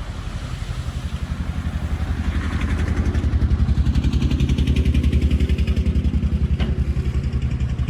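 Heavy machine's diesel engine running with a close, even pulse, working harder and louder over the first few seconds, then holding. A single sharp click comes about two-thirds of the way through.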